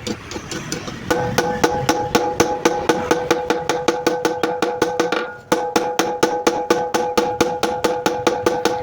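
Rapid, evenly spaced hammer blows on steel, about five a second, while a golok (machete) blade is forged. A steady hum runs underneath; it comes in about a second in and drops out briefly just past the middle.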